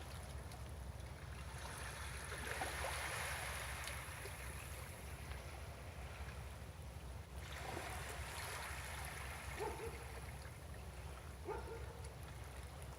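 Calm sea water lapping against a breakwater, washing in two soft swells with a few small gurgles near the end, over a steady low rumble.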